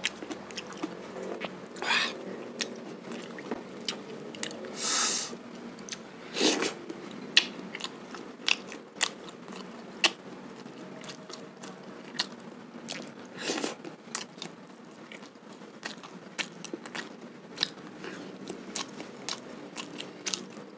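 Close-up chewing and biting of grilled sate kere, soft skewered cakes of soybean pulp, with many wet mouth clicks and smacks and a few louder bites.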